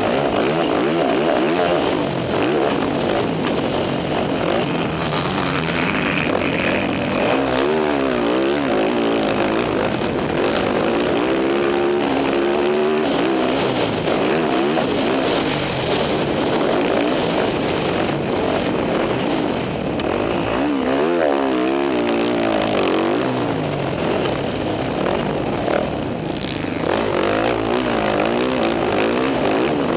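Dirt bike engine under riding load, repeatedly revving up and falling back as the throttle opens and closes, with steady wind and road hiss over it.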